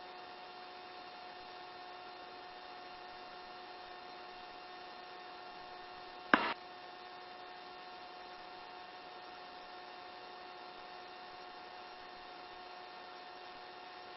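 Steady electrical hum with several faint steady tones on a helicopter's intercom audio feed, broken once about six seconds in by a short, loud burst like the line keying open.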